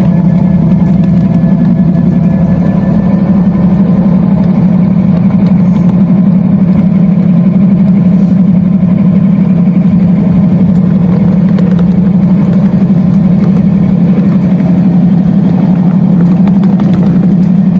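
Diesel prime-mover sound from the onboard sound system of a 1/8-scale ride-on CSX model locomotive, running at a steady, loud drone with no change in pitch.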